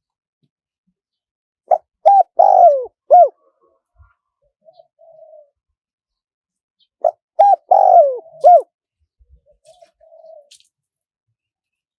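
Spotted dove cooing: two loud phrases about five seconds apart, each of four notes with a longer falling note third. Fainter, shorter coos come between them.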